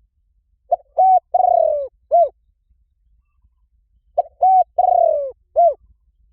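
Spotted dove cooing: two calls about three and a half seconds apart, each made of two short coos, a longer falling coo and a last short coo.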